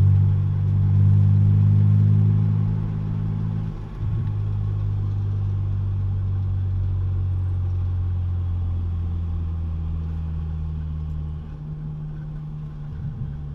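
2006 BMW Z4 M's S54 inline-six with its muffler deleted, droning at steady low revs heard from inside the cabin as the car rolls along at about 30 mph. The sound drops in level about four seconds in, and the note falls and quietens about two seconds before the end as the car slows.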